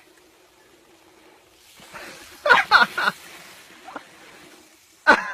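A dog giving short, high yelping barks: a quick cluster about halfway through and another near the end, over a faint steady hum.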